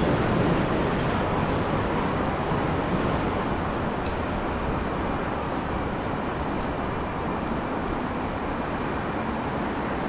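Sotetsu 9000-series electric train running away over elevated track, its rumble gradually fading.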